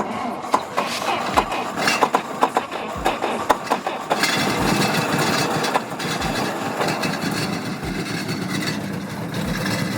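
GAZ M20 Pobeda's four-cylinder flathead engine being cranked and sputtering unevenly, then catching about four seconds in and running steadily: a first start after the car has stood for about twenty years.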